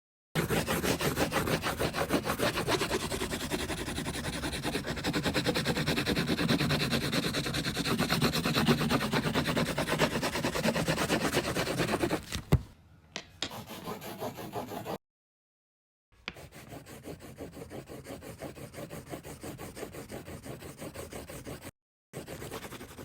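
Colouring tool scribbling on paper in rapid back-and-forth strokes, louder during the first half. A sharp click comes about halfway through, and the sound cuts off abruptly to silence a few times.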